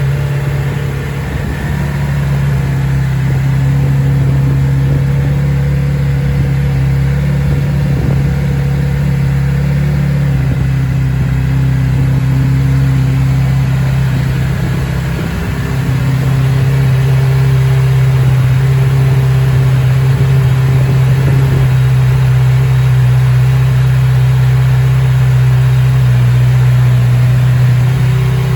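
Kawasaki Z900RS inline-four engine idling steadily while warming up after its first start in several months, running toward a stable idle. It gets a little louder about halfway through.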